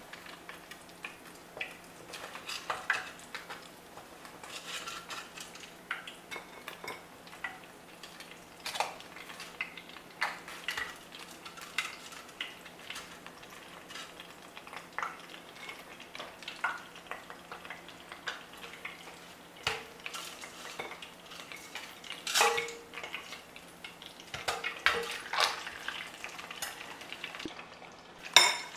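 A metal fork clinking and scraping against the deep fryer and a plate while fried grits are lifted out of the oil, with irregular sharp clinks throughout over a faint sizzle of hot oil. A steady low hum runs underneath.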